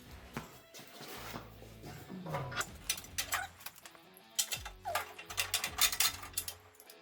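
Bursts of rapid mechanical clicking and rattling, densest in the second half, over a low hum.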